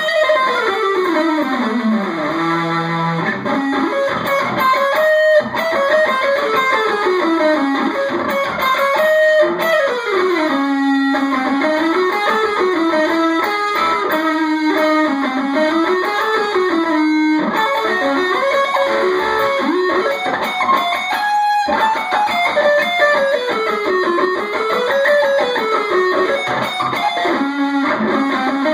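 Distorted electric guitar with an active Seymour Duncan Blackout neck pickup, played through a small practice amp: fast sweep-picked arpeggios running up and down in continuous waves, with a few brief breaks between runs.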